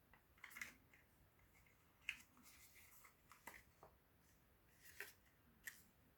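Faint handling of the earphones and their packaging: a handful of soft clicks and light rustles, spaced about a second apart.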